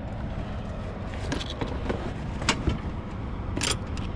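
Semi truck's diesel engine idling steadily, with a few sharp knocks and clicks, the loudest about two and a half and three and a half seconds in.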